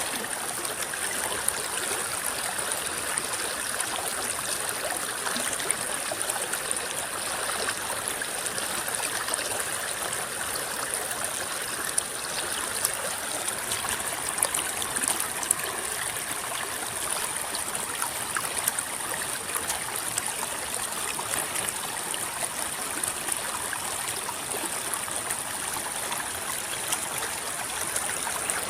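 River water rippling and babbling over stones: a steady flow with many small splashes and gurgles, and a constant high hiss above it.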